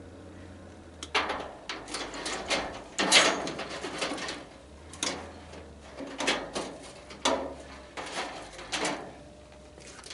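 A run of irregular clanks and rattles, about a dozen over eight seconds, from metal parts of a tanning bed being pulled and handled as it is stripped for scrap. The loudest is about three seconds in.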